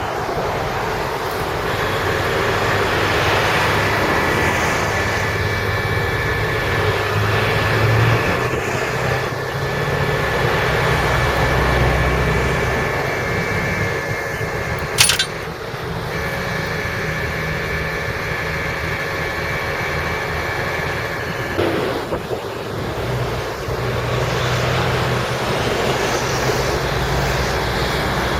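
Tow truck's engine running steadily to drive its hydraulic winch, with a steady whine, as the winch pulls a stuck car out of mud. One sharp click about halfway through.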